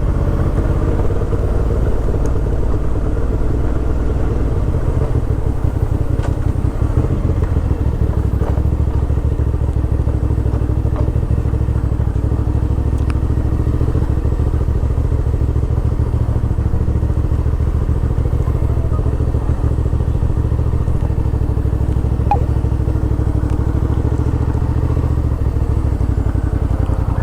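Suzuki V-Strom 650 XT's 645 cc V-twin engine running steadily: an even low rumble with no revving.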